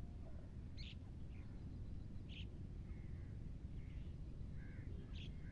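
Faint, short bird chirps scattered through a few seconds, with a few softer curved calls, over a steady low rumble.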